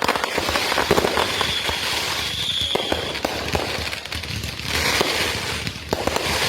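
Consumer aerial fireworks going off in a dense, continuous run of bangs and crackles, with a brief high whistle about one to three seconds in.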